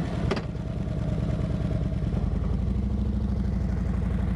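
Harley-Davidson Ultra Limited Low's Milwaukee-Eight V-twin idling steadily just after start-up, with a short knock near the start.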